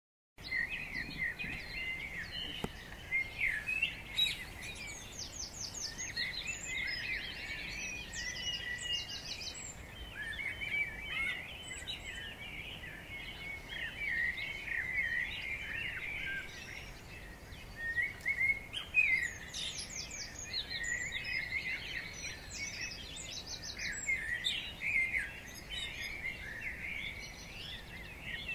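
Birds chirping and singing, many calls overlapping. Every few seconds a rapid high trill stands out.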